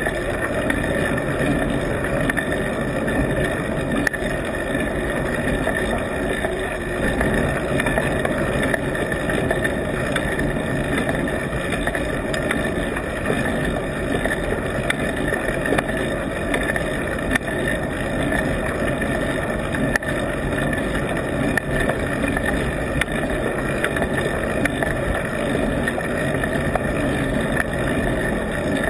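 Steady riding noise picked up by a camera stuck onto the bike: a continuous rumble and rush of road and wind, with a few faint ticks and rattles.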